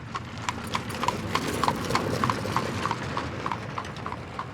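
Horse's hooves clip-clopping at a trot in a steady rhythm of about three beats a second, growing louder until about two seconds in and then fading as the horse passes and moves away.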